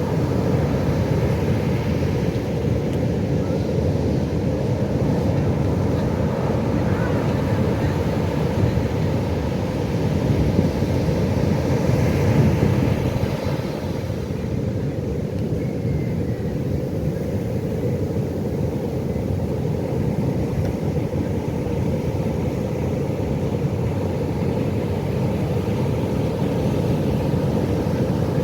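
Ocean surf: a steady low rush of breaking waves, swelling about ten seconds in and easing a few seconds later.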